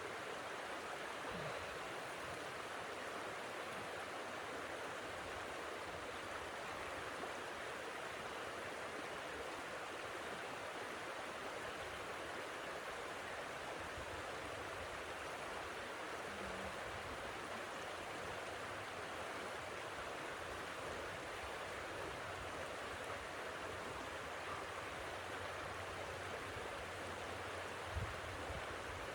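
Steady, even rushing of blizzard wind, with a brief low thump near the end.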